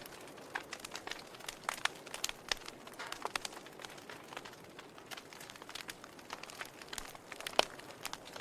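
Wood fire crackling in a fireplace: irregular snaps and pops over a soft hiss, with one louder pop near the end.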